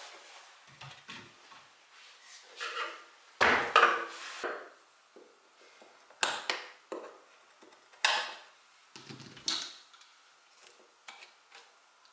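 Irregular knocks, taps and scrapes of wood and tools being handled on a workbench, the loudest cluster about four seconds in.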